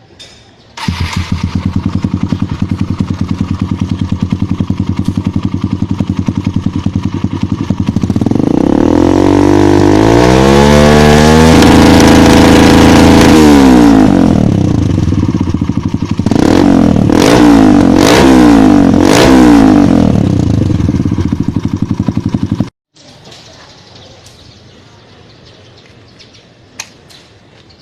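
Kawasaki KLX single-cylinder dirt bike engine through a Triton CR-5 aftermarket exhaust: it starts about a second in and idles, revs up and holds high for a few seconds, drops back, gets three quick throttle blips, then shuts off abruptly near the end.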